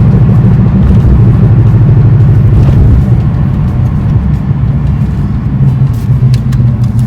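Car driving, with a steady low engine and road rumble that grows more uneven after about three seconds.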